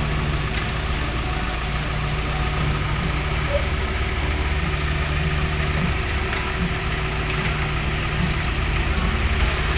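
Heavy construction machine's diesel engine running steadily at a constant, unchanging pitch.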